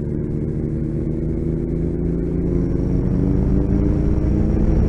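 Motorcycle engine running under way with wind and road rumble, its pitch climbing slowly from about halfway through as the bike gathers speed.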